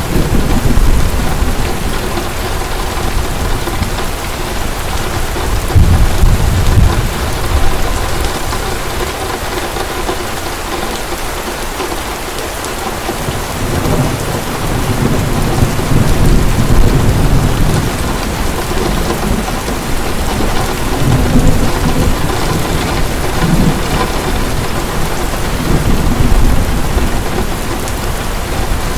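Heavy rain falling steadily, with low rolls of thunder swelling up several times, most strongly about six seconds in and again from about fourteen to eighteen seconds in.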